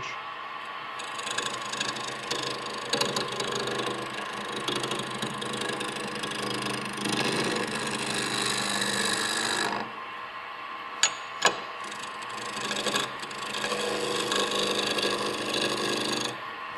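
Turning tool cutting a spinning wooden sphere on a small wood lathe, a rough scraping cut over the steady hum of the running lathe, removing the ghost image to bring the ball round. The cutting pauses for a couple of seconds past the middle with two sharp clicks, then resumes.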